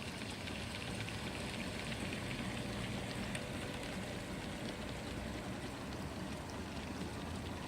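G-scale three-truck Shay model locomotive running along its track: a steady rumble with a dense patter of fine clicks.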